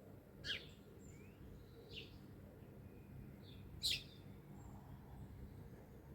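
Wild birds calling: a few short, sharp high calls, the two loudest about half a second in and just before four seconds, with fainter chirps between, over a faint steady low rumble.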